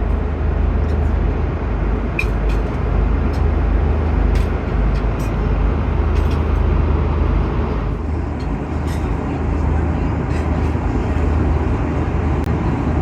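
Steady low rumble and rushing air noise inside an Airbus A330-200 cabin, with a few faint ticks.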